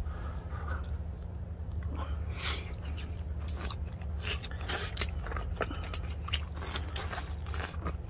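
A person chewing a mouthful of grilled beef close to the microphone: a quick, irregular series of short clicks and mouth sounds over a steady low hum.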